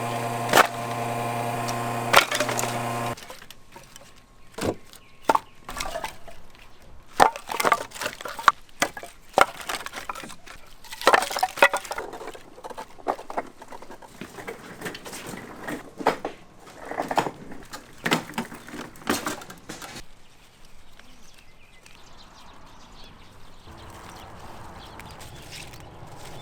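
A steady hum with several overtones cuts off about three seconds in. It is followed by a long run of irregular sharp knocks and cracks, which thin out near the end into a faint background.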